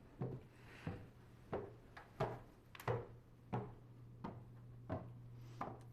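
Footsteps climbing a staircase, a steady tread of about three steps every two seconds, with a steady low hum underneath.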